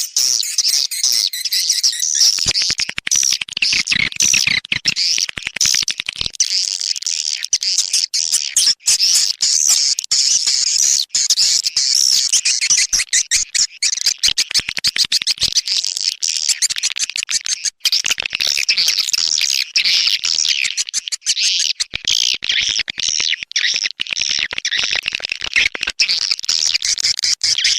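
Recorded swiftlet calls: a dense, continuous chatter of rapid high chirps and twitters. It is a swiftlet-house lure track, an outdoor call sound played to draw swiftlets to the nesting house.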